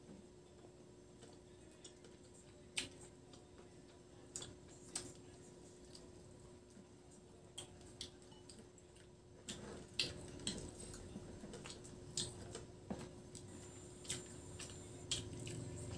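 Faint eating sounds: scattered mouth clicks and wet smacks from chewing fried chicken and rice eaten by hand, coming more often in the second half, over a faint steady hum.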